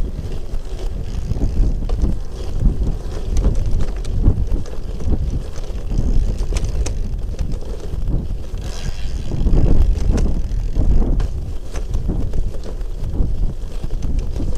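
Wind buffeting the microphone, a low uneven rumble with gusty swells, mixed with the noise of a bicycle riding along.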